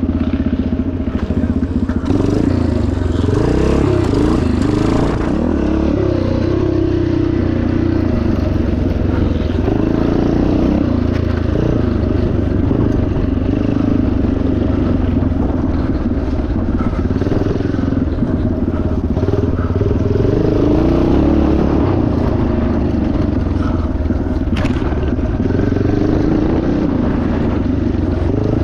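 1977 Yamaha TT500's single-cylinder four-stroke engine running hard under load, its pitch rising and falling continually as the throttle is opened and closed.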